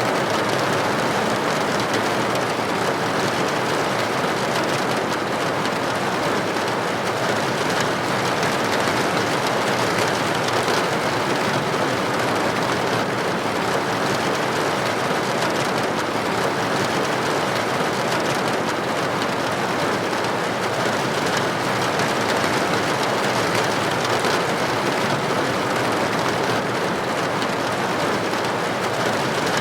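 Steady rain with droplets striking a building window, a constant even hiss with no breaks.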